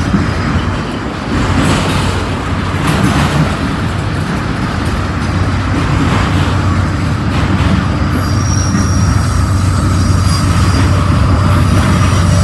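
Freight train cars rolling past on the rails, with steady wheel-on-rail noise and a low rumble building. Thin high-pitched wheel squeal comes in about two-thirds of the way through.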